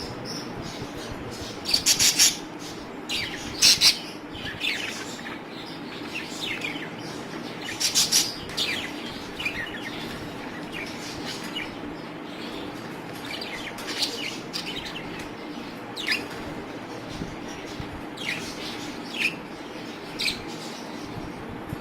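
Budgerigars chirping in many short, high calls, with louder bursts of chatter about two, four and eight seconds in.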